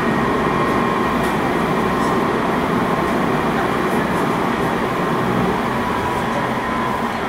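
Seibu 6000 series commuter train running, heard from inside the car: a steady rumble of wheels and running gear with a thin, steady whine over it.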